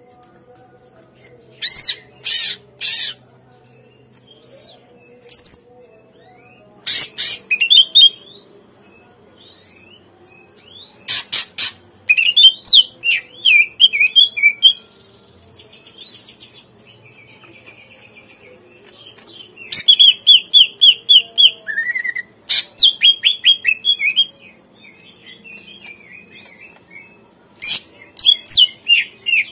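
Cucak ijo (green leafbird) singing in loud, varied bursts. Fast runs of short repeated notes and sliding whistles are mixed with a few harsh, scratchy calls, with short pauses between phrases. It is the lively full song used as a lure to get young birds of the same kind to answer and sing.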